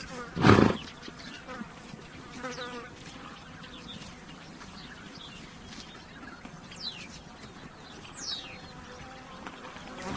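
A horse gives one short, loud snort about half a second in. Flies buzz around it, and a few high bird calls sweep downward later on.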